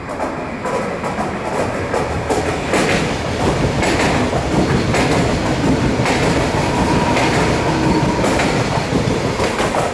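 Renfe Media Distancia passenger train passing close by on the platform track, its wheels clicking over the rail joints through a steady rush of running noise, with a faint steady whine in the second half.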